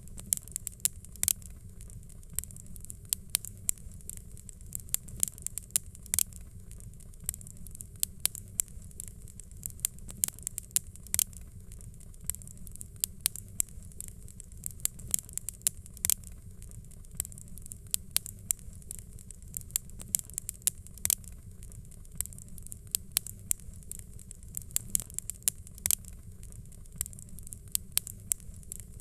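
Wood fire crackling in a fireplace: frequent sharp pops and snaps over a steady low rumble and hiss.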